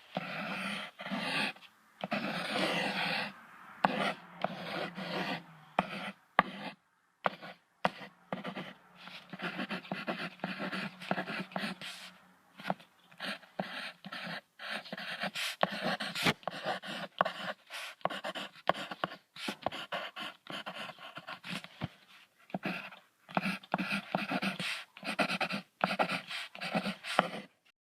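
Squirrel chattering: rapid runs of short, scratchy calls broken by brief pauses.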